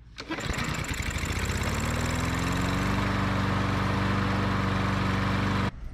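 Briggs & Stratton EX series lawn mower engine starting, speeding up over a couple of seconds and then running steadily, showing that the cleaned carburetor has cured the no-start. The sound cuts off abruptly near the end.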